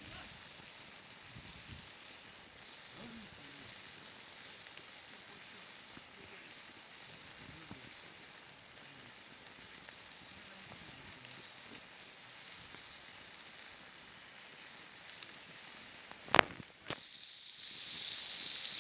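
Campfire burning with a steady soft hiss and crackle. About sixteen seconds in there is one sharp loud knock, followed shortly by a smaller one.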